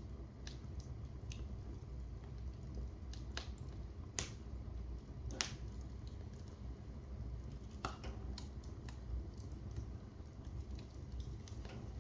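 Wood fire crackling in a fireplace: irregular sharp pops and snaps over a low steady rumble, the loudest pops about four and five and a half seconds in.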